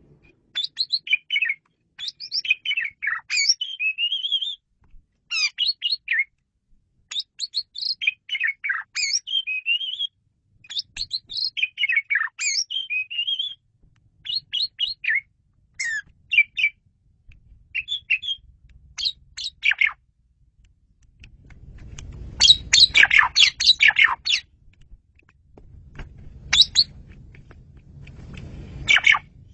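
Asian pied starling (jalak suren) singing a long, varied song of quick chirps, whistles and rattling notes in short phrases. Louder, harsher, denser bursts come about three-quarters of the way through and again near the end.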